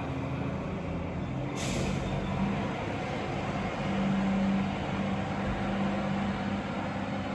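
Garbage truck's diesel engine running steadily, with a short sharp air-brake hiss about one and a half seconds in.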